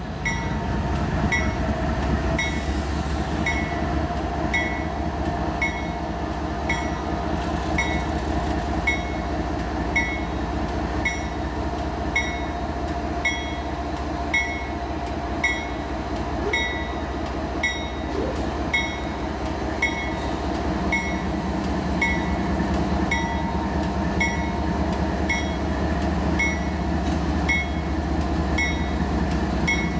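Diesel freight locomotives rumbling as a freight train approaches and passes, with a bell ringing steadily about twice a second over the engine noise.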